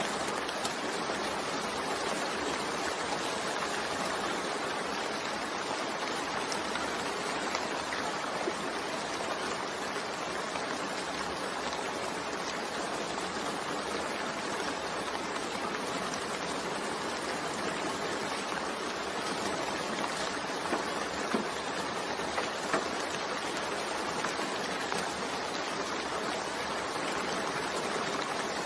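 Steady rain falling, an even hiss with scattered sharper drop ticks, a few slightly louder ones a little after the middle.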